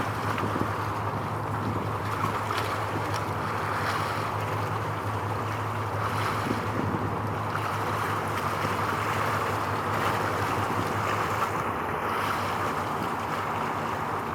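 Steady wind and water noise, with a low, even engine hum underneath.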